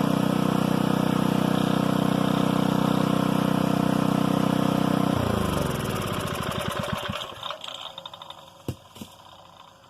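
Old Briggs & Stratton 5 hp single-cylinder engine running steadily, then shut off about five seconds in, its pitch falling as it coasts to a stop. A couple of short knocks follow near the end.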